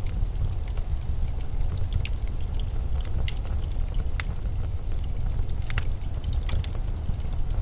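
Blizzard wind as a steady low rumble, with scattered small ticks and crackles over it.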